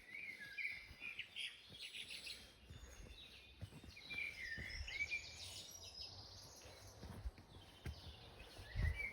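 A songbird singing in short phrases of curving, chirping notes, repeated a few times, over low rumbling and a few soft thumps.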